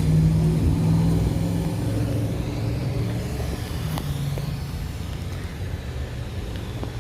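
A car engine running with a steady low hum that slowly fades over several seconds, with a faint click about four seconds in.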